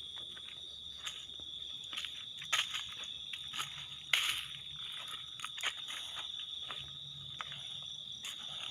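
Irregular crunching and rustling of dry leaves and twigs underfoot, over a steady high-pitched trill of insects such as crickets.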